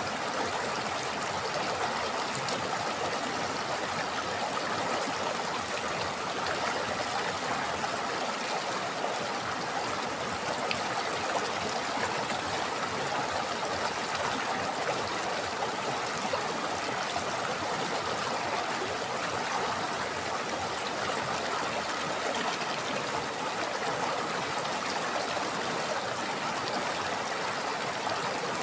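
River water flowing over rocks: a steady, unbroken rush with trickling and gurgling.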